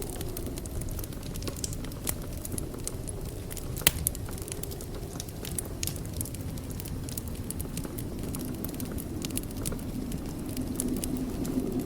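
Wood fire crackling in a fireplace: frequent small pops and snaps over a low rumble of flames, with one sharper pop about four seconds in.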